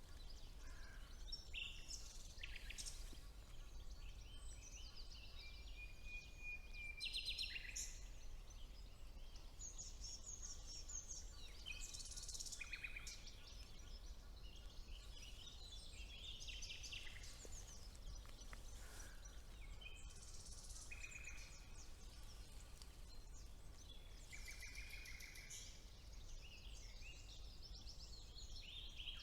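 Several songbirds singing at once in a spring woodland chorus: overlapping short phrases, trills and a few held whistled notes, one after another throughout, over a faint steady low rumble.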